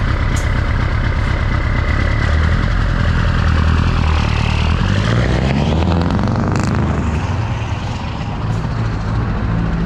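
Scania 164 580's V8 diesel engine running loud and steady, its pitch falling about halfway through, with a couple of brief hisses.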